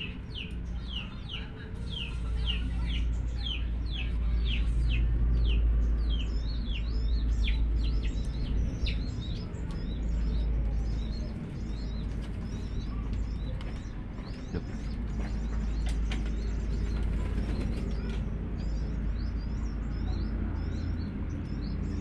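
A small bird chirping: a quick run of short, falling chirps, about two to three a second, for roughly the first nine seconds, then scattered higher chirps. A steady low rumble lies underneath.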